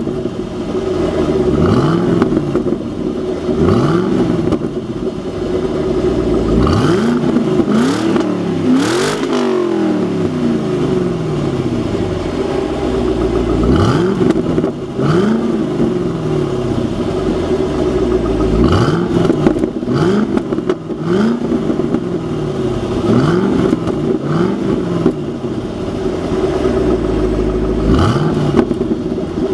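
2007 Ford Mustang GT's 4.6-litre V8, warmed up, revved through its exhaust in about a dozen quick blips from idle. Each rev rises and falls back, and the highest comes about a third of the way in, followed by a few seconds at idle.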